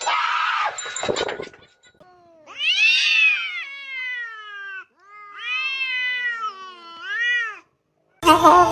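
Domestic cat meowing: three long, drawn-out meows, each rising and then falling in pitch, the last one shorter, after a short burst of noise at the start.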